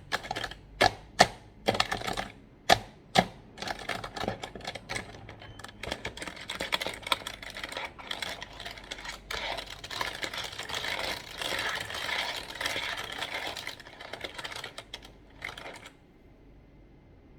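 Fast ASMR tapping and clicking on a computer keyboard: a few loud single taps, then a dense run of rapid key clicks lasting about ten seconds, which stops shortly before the end.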